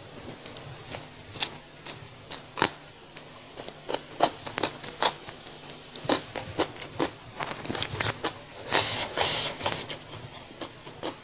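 Close-miked eating sounds: crisp, irregular crunches and wet mouth clicks from chewing raw vegetables, with a denser crunching stretch about nine seconds in.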